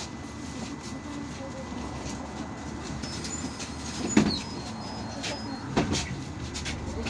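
Interior of an IVECO Urbanway 18M articulated city bus under way: a steady low engine and road rumble, with two sharp knocks about four and six seconds in.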